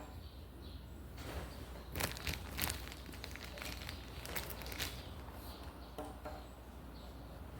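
Dry sticks and leaves crunching and snapping, with a cluster of sharp cracks about two to three seconds in and a few more later.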